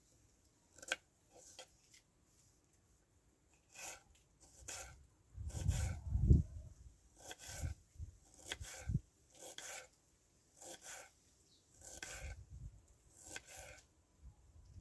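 A series of short, irregular rubbing or scraping strokes, with a louder low rumble about six seconds in.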